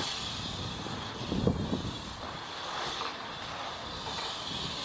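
Wind buffeting the microphone, with a short dull rumble about one and a half seconds in.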